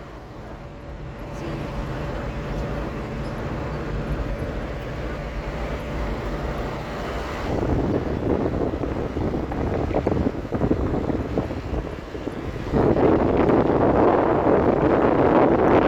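Car driving: steady engine and road rumble with wind buffeting the microphone, getting louder about three quarters of the way through.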